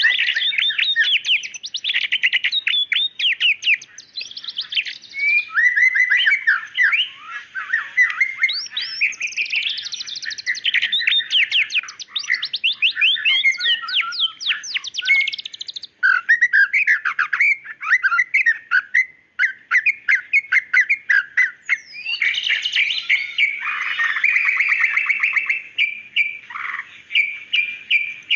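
White-rumped shama singing without pause: a fast, varied song of sharp whistled notes and rapid trills, one phrase running into the next.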